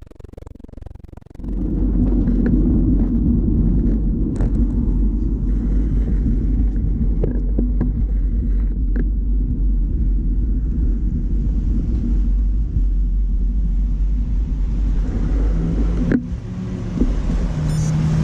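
Wind rumbling steadily on the microphone of a bicycle-mounted camera while riding, starting about a second and a half in.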